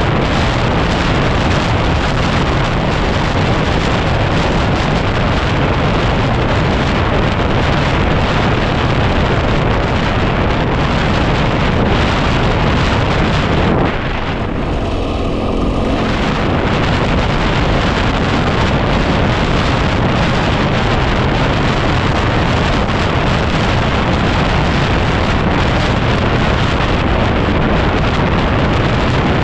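Heavy wind noise buffeting the microphone, largely covering the single-cylinder engine of a 2010 Yamaha WR250R dirt bike being ridden. About halfway through, the wind eases for a couple of seconds and the engine's note comes through more clearly before the buffeting returns.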